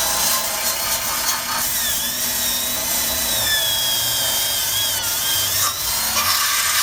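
Power drill spinning a wire brush against the motorcycle's metal undercarriage, scrubbing off rust and paint: a steady hissing scour with a high whine that wavers as the load changes. It cuts off suddenly near the end.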